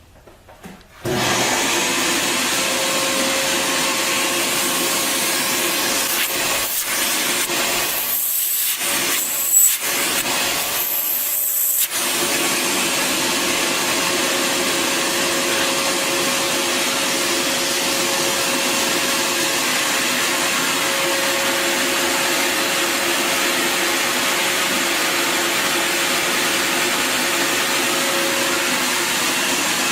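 Bissell Garage Pro wall-mounted wet/dry vacuum's 12-amp motor switched on about a second in, then running steadily: a rush of air with a steady whine. Between about 8 and 12 seconds the sound dips and changes a few times before settling back to a steady run.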